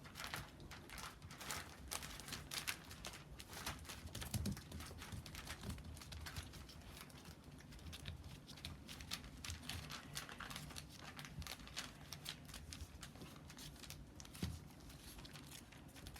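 Rough Collie puppies moving about: a steady run of faint rustling with many small clicks and taps, and a couple of louder knocks.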